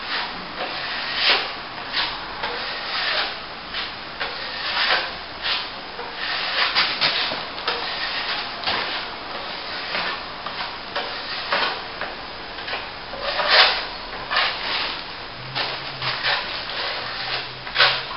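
Plasterer's trowel scraping and spreading top coat compound on a plasterboard joint: a run of short, irregular scrapes, the loudest about thirteen seconds in.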